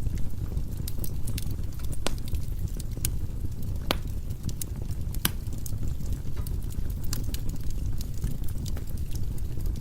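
Firewood burning in a fireplace: a steady low rumble of the flames with irregular sharp crackles and pops, the loudest about two, four and five seconds in.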